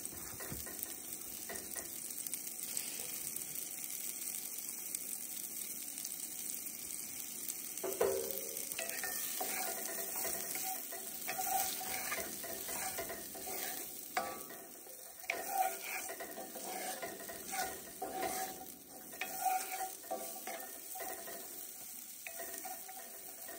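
Diced carrots sizzling in a cast iron skillet on a camp stove. From about eight seconds in they are stirred, with repeated scrapes and knocks against the pan.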